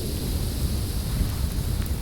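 Snowstorm wind blowing steadily: a deep, unbroken rumble with a fainter high hiss above it.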